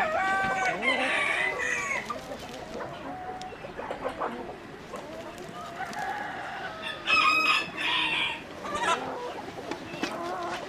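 Chickens clucking and a rooster crowing, with the loudest call about seven seconds in.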